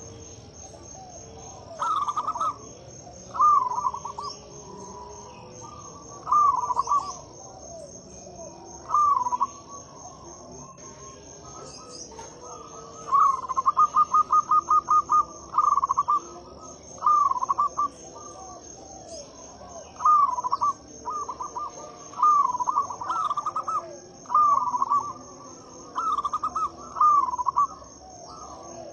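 Zebra dove (perkutut) cooing: short phrases of coos repeated every second or two, with a quick run of rapid notes about halfway through. A steady high-pitched insect trill runs underneath.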